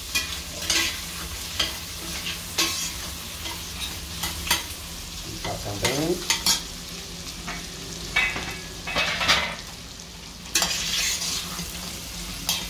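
Diced bacon, sausage and garlic sizzling as they fry in lard in a stainless steel pot, while a metal spoon stirs them, scraping and clinking against the pot again and again.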